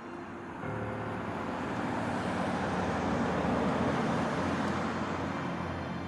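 A road vehicle passing by: a rushing engine-and-tyre noise that starts under a second in, grows louder to the middle, then fades.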